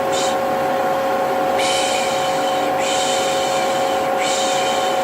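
Vacuum cleaner running steadily with a constant humming whine, overlaid by repeated 'shh' shushing sounds of the kind used to soothe a baby: a brief one at the start, then longer ones from about a second and a half in, one after another.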